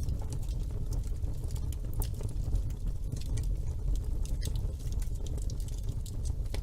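Wood fire in a fireplace burning with a steady low rumble and frequent, irregular crackles and pops.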